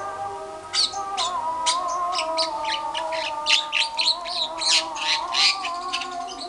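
Javan myna (jalak kebo) chattering: a rapid run of short, harsh notes, several a second, starting just under a second in. A steady, slightly wavering whistle-like tone runs underneath.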